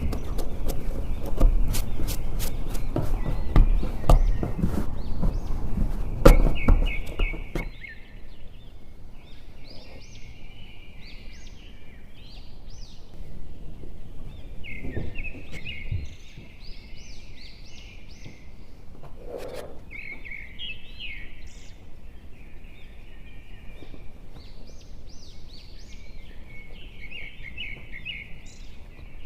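A clatter of knocks and handling noise for the first several seconds, then a small bird chirping and trilling in short repeated phrases.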